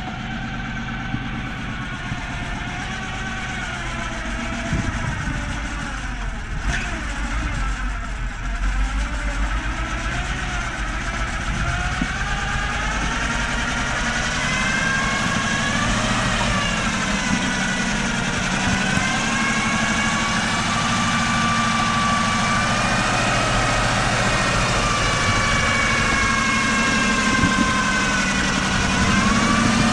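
Toyota truck's engine running at low revs, with higher tones that slowly rise and fall in pitch. It grows gradually louder from about halfway through.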